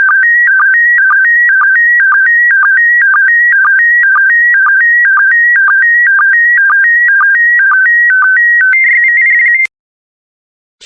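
Slow-scan television (SSTV) PD120 image signal: a loud electronic warble jumping between two pitches in a pattern that repeats about twice a second, each cycle starting with a short tick, as scan lines of the picture are sent. A little before the end it changes to a steady higher tone that cuts off suddenly, the end of the image transmission.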